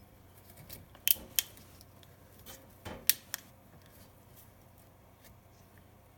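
Small plastic inline fuse holder on a wall oven's wiring being handled and its clip pressed shut, giving several sharp clicks in two groups, about a second in and again around three seconds in.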